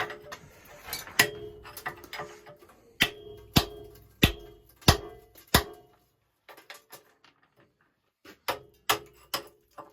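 Hammer blows on the cast-iron sections of a Burnham steam boiler as they are being split apart, each strike leaving a short metallic ring. About six blows come in the first six seconds, then a pause, then three more near the end.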